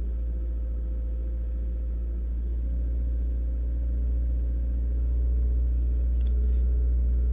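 2008 Suzuki Swift's 1.5-litre M15A four-cylinder engine running at raised revs, a steady low hum that grows a little louder partway through. The revs are held up so that the rear oxygen sensor shows whether the catalytic converter is failing, as a P0420 code suggests.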